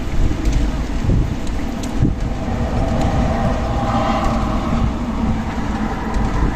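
Strong desert wind buffeting the microphone, a heavy, uneven rumble. A faint steady tone rises over it about halfway through.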